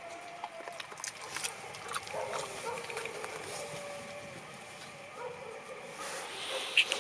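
A dog snuffling and chewing at food, with scattered small clicks and a few faint short whine-like tones. Two sharper clicks come near the end.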